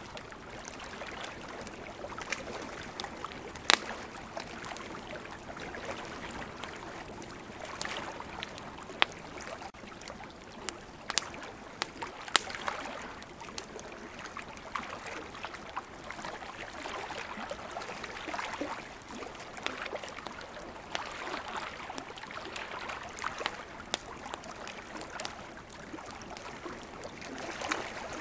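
Wood campfire crackling, with sharp pops scattered irregularly through it, over a steady wash of water that swells and eases every few seconds.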